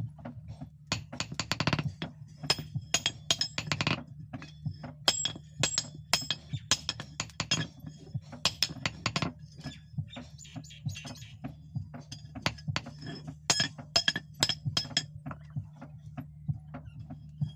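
Irregular hammer strikes on steel, each a sharp clink with a short metallic ring, sometimes several in quick succession, over a steady low hum.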